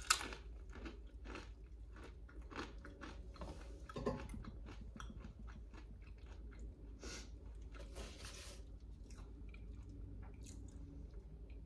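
A crunchy snack bitten with a sharp crunch right at the start, then chewed with repeated crunching that thins out after about nine seconds.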